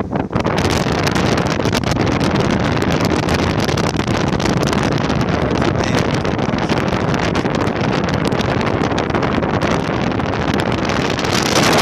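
Wind buffeting the microphone: a loud, continuous rushing with many small crackling knocks, growing stronger near the end.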